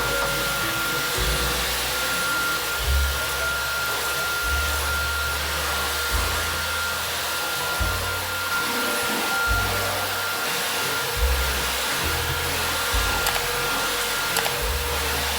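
A vacuum cleaner running steadily, a hiss with a constant motor whine, under background music with a moving bass line.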